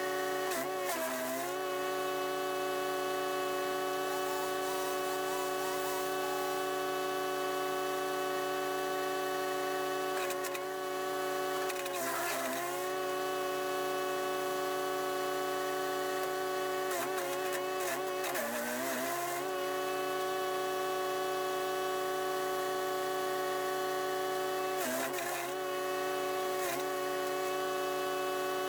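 The Chipease D1500E wood chipper's 420cc, 15 hp four-stroke engine running steadily. About four times its pitch sags briefly and recovers along with a burst of chipping noise, as the engine loads down on branches fed into the blades.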